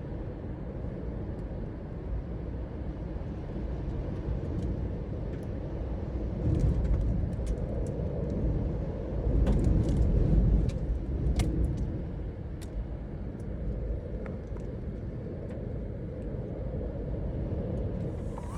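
Strong Santa Ana wind gusts rumbling across the microphone, swelling about six seconds in and again around ten seconds, with scattered faint ticks and rattles.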